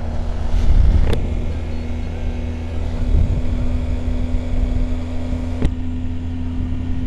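BMW R1250GSA's boxer-twin engine running steadily, with two sharp clicks, about a second in and near the end.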